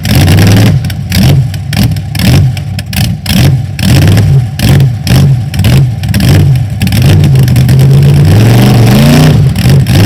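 Large truck engine revved hard in quick repeated blips, about two a second, then held at high revs and climbing near the end.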